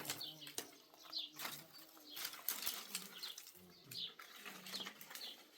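Faint bird calls: short high chirps scattered through, over some low calling, with a few light knocks.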